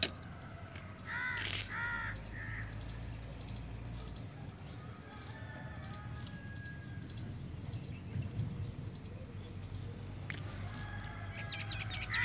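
Birds calling in the background: two short calls in quick succession about a second in, a fainter chirping in between, and another call at the end, over a steady low hum.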